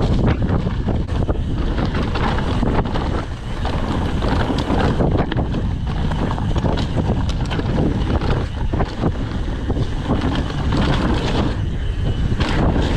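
Wind rushing over a chest-mounted GoPro Hero 8 as a Trek Session downhill mountain bike runs fast down a trail, with tyre noise and frequent rattling knocks from the bike over rough ground.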